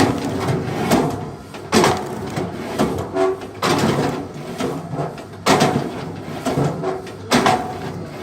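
Repeated heavy knocks on wood, about one every two seconds, each with a short clattering ring, and lighter knocks between them.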